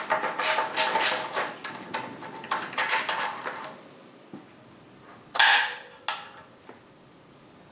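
Metal exhaust parts being handled: a quick run of clinks and scrapes with a faint metallic ring for the first few seconds, then one louder scrape about five and a half seconds in.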